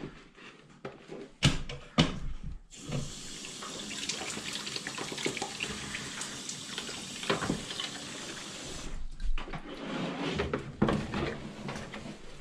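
Water running steadily out of a washing machine's water supply line as it is flushed clear of debris, starting abruptly about three seconds in and cutting off about six seconds later. A couple of sharp knocks come before it, and handling clatter after.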